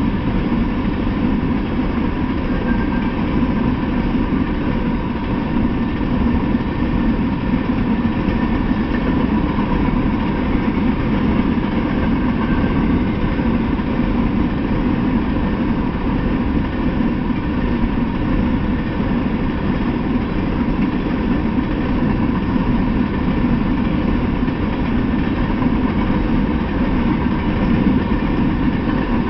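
Freight train of open-top hopper cars rolling past at a steady speed: a continuous, even rumble of steel wheels on the rails with no single knocks or breaks.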